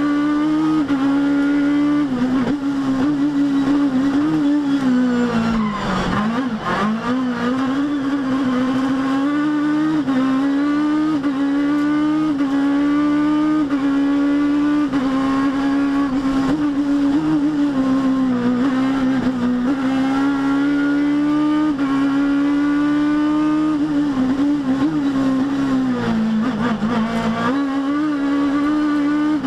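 Rally kit car engine running hard at a steady high pitch for long stretches. The pitch dips and climbs back twice, about 6 seconds in and near the end.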